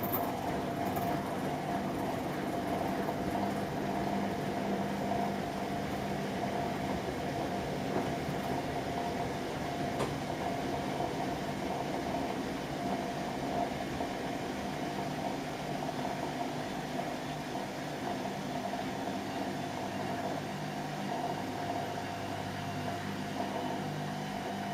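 Whirlpool washing machine running its cold wash cycle: a steady motor hum with a constant whine.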